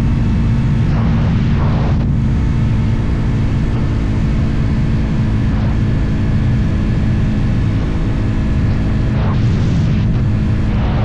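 Motorcycle engine running at a steady cruise, its pitch holding level, with a low rumble and rushes of wind noise on the microphone about a second in and again near the end.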